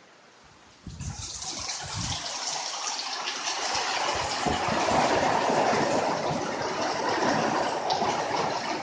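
Heavy rain pouring down in a dense rush that starts suddenly about a second in, swells, then falls away at the end, with a few low thumps in the first couple of seconds.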